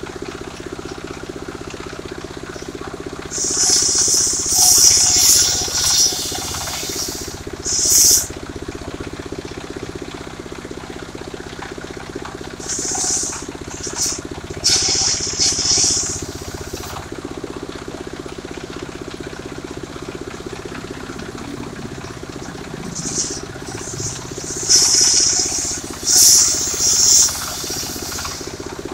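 Engine-driven portable circular sawmill running steadily, with three spells of a harsh high hiss, each about four seconds long, as the blade cuts through sengon wood.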